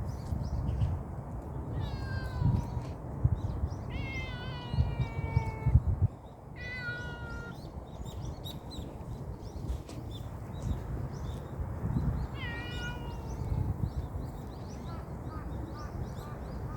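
An animal giving drawn-out, mewing calls that fall in pitch, four times, with fainter short high calls near the end, over a steady low rumble.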